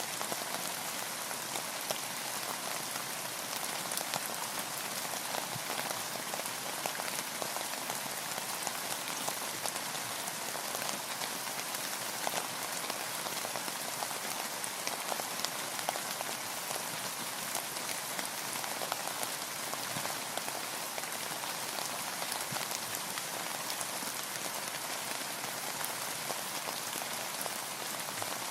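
Steady rain pattering on a boat's roof and the water around it, a dense hiss of many small drop ticks.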